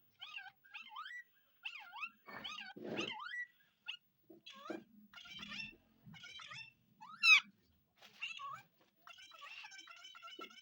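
Indian ringneck parrot chattering in short chirps and whistled glides, with one loud rising squawk about seven seconds in.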